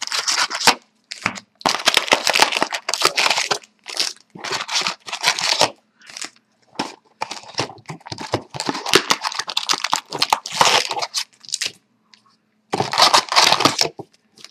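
Wrappers of hockey trading-card packs being torn open and crinkled, in repeated bursts of ripping and rustling with short pauses between packs.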